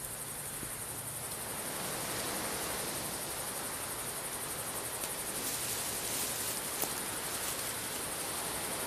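Insects chirring steadily in high-pitched trills, with a wider even hiss swelling in about two seconds in.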